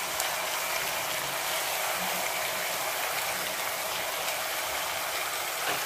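Chicken frying in a pan, a steady sizzle.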